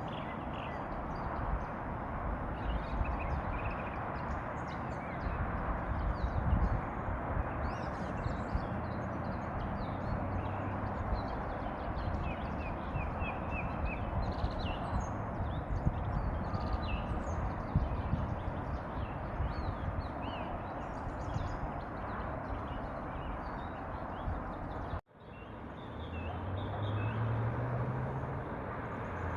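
Outdoor ambience of many small birds chirping and calling over a steady background rush. There is a brief break about 25 seconds in, then a low hum that rises slightly near the end.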